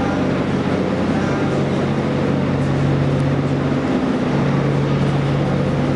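Steady machine hum of a train standing at the depot, with a low droning tone that dips out briefly about four seconds in, over a background of noise.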